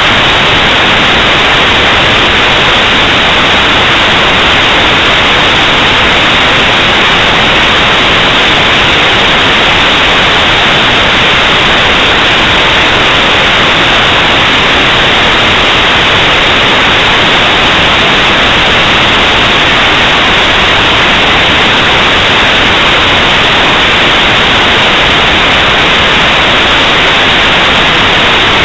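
Loud, steady static hiss, even and unchanging, with nothing else heard in it.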